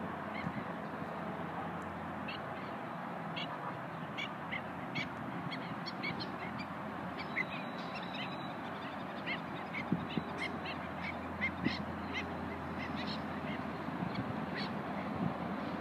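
Birds calling in many short, irregular chirps over a steady background noise with a low hum.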